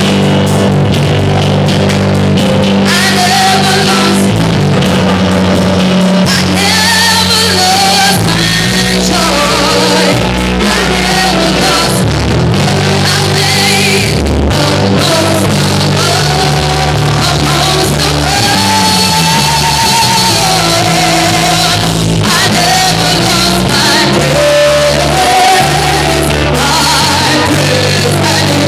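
Loud church music: a singer with a full band, held bass notes changing every few seconds under a wavering vocal melody.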